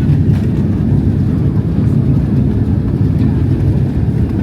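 Cabin noise inside a Boeing 767-300 airliner on the ground just after landing: a steady low rumble from the engines and airframe, with a few faint rattles in the first half second.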